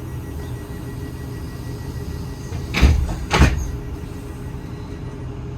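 Train running with a steady low rumble. Just under three seconds in come two short, loud rushing sounds about half a second apart.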